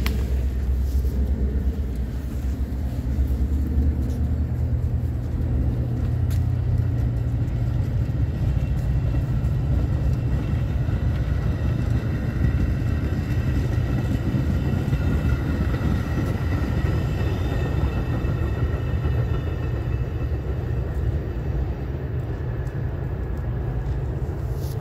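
A train rolling by: a steady low rumble of wheels and running gear on the rails, with faint thin whining tones in the second half.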